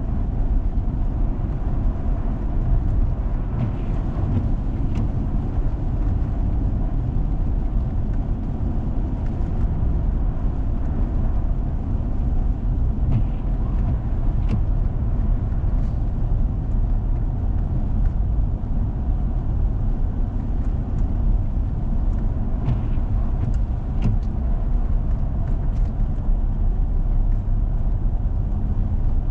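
Four-wheel-drive vehicle driving on a snowy road: a steady low rumble of engine and tyres, with a few faint ticks now and then.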